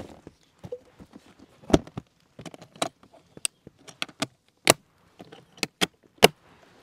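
Hard objects being handled, giving irregular sharp clinks and knocks, about a dozen over several seconds.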